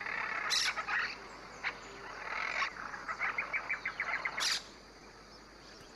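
Monk parakeet calls: scattered short calls, then about three seconds in a quick run of chattering notes, roughly eight a second, and a brief higher call just after.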